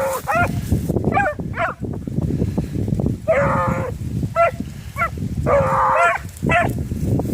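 Rabbit-hunting hounds baying on a trail: a run of short barks, with two longer drawn-out bawls about three and five and a half seconds in. Wind rumbles on the microphone underneath.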